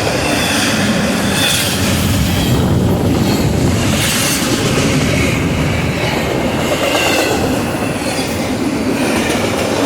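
A Norfolk Southern intermodal freight train's cars rolling past at speed: a steady, loud rumble of wheels on rail, with faint wheel squeal now and then.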